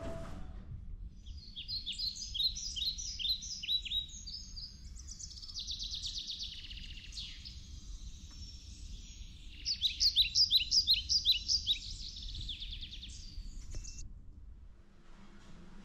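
A songbird singing: quick series of sharp high chirps and a buzzy trill, repeated in phrases, over a faint low rumble. The song cuts off suddenly about two seconds before the end.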